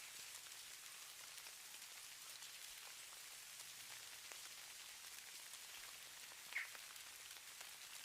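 Faint, steady hiss of falling snow with fine, soft pattering ticks, as in a snowfall ambience. A single short, higher sound stands out near the end.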